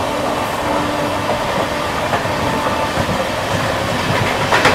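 Indian express passenger train running at speed on the adjacent track, a steady rumble of wheels on rails heard from the train it is overtaking. The noise grows louder just before the end.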